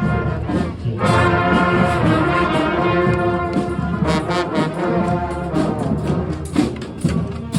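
A brass band playing held chords, with drum strokes joining under the brass in the second half.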